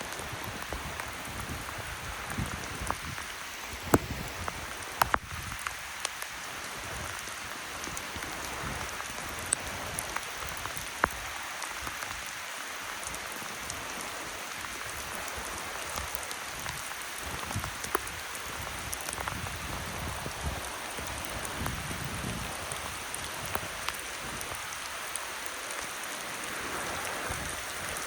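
Steady rain falling, with scattered sharp ticks of drops striking nearby surfaces and a few louder taps about 4, 5, 11 and 18 seconds in.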